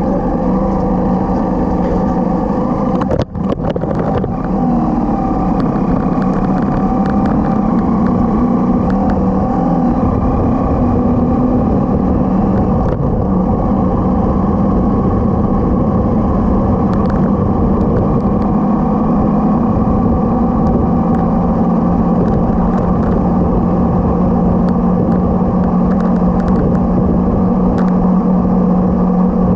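Motorcycle engine running steadily under way. There is a brief dropout about three seconds in, and the engine note steps down in pitch partway through.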